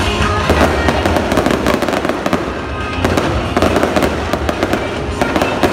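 Fireworks display crackling and popping in dense rapid volleys, coming in waves, over loud music with a heavy bass.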